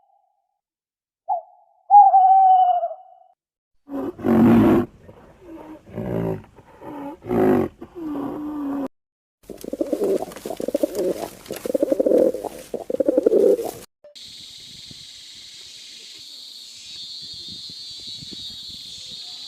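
A series of different animal calls one after another: two short falling calls, then several loud low roaring calls, then a fast rhythmic run of pulsed calls, and finally a steady high hiss.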